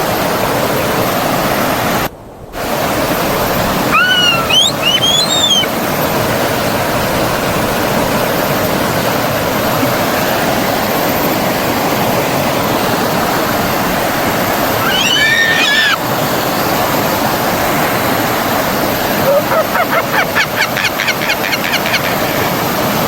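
Forest stream flowing steadily, with birds calling over the water: a few quick chirps about four seconds in, another call a little past the middle, and a fast trill near the end. The water sound cuts out briefly about two seconds in.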